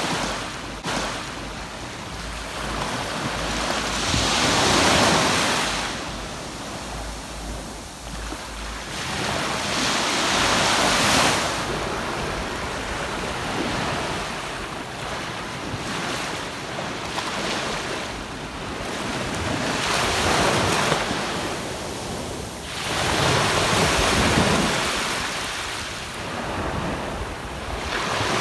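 Ocean surf on a sandy beach: waves break and wash in as four swelling surges of hiss a few seconds apart, each fading back between them. Wind rumbles on the microphone in the first several seconds.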